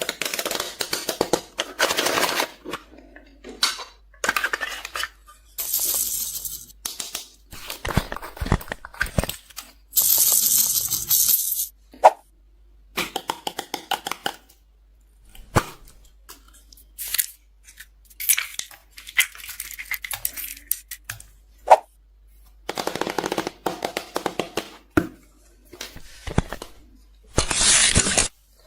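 Slime being squeezed and mixed with lipsticks and other cosmetics: a series of short crackling, crunching bursts a second or two long with brief pauses between them, and a couple of sharp snaps.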